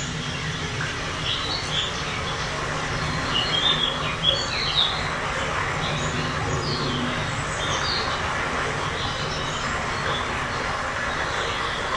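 Birds chirping and calling in short, quick phrases over a steady low background rumble.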